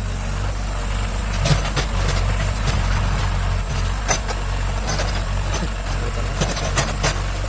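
Excavator's diesel engine running steadily, with a few sharp metallic clanks.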